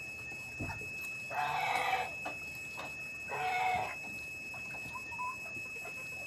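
Chickens calling: two loud, harsh squawks, each under a second, about two seconds apart.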